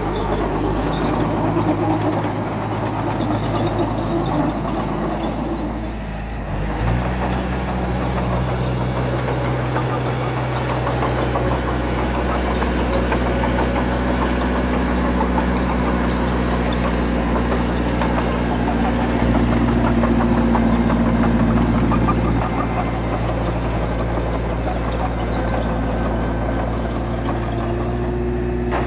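Small bulldozer's diesel engine running steadily under load. It dips briefly, then revs up to a higher pitch about seven seconds in, and runs harder for a few seconds about twenty seconds in.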